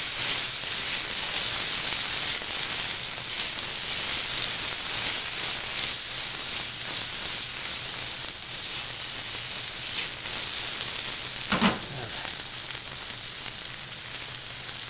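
Quartered fresh artichokes sizzling and crackling steadily in hot oil in a sauté pan, with one brief louder sound about three quarters of the way through.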